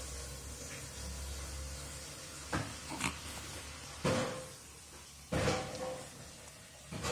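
A baby sucking on her fingers, making about five short smacking and grunting noises over the last four seconds.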